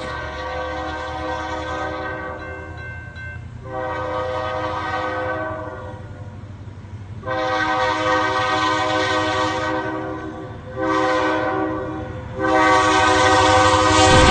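Train horn sounding a chord of several tones in a series of long blasts with short gaps and one shorter blast near the end, over the steady low rumble of the moving train.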